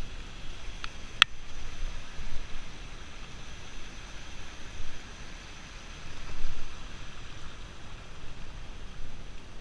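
Steady rushing water, with low rumbling buffets of wind on the microphone and two sharp clicks about a second in.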